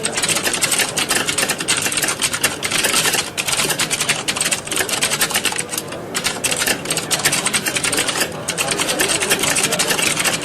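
Many computer keyboards typed on at once, a dense, continuous clatter of keystrokes, as in an exam hall during a typing test. The clatter thins briefly a few times.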